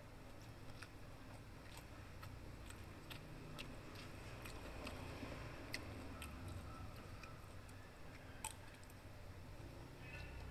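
Close chewing of a mouthful of food, with scattered light clicks of a metal spoon against a plastic food box.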